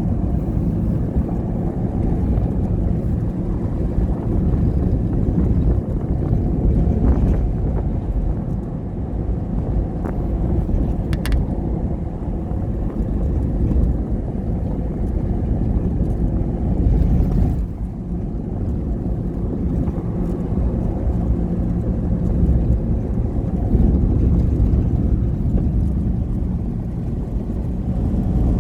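Steady low rumble of a motor vehicle under way, with wind noise on the microphone.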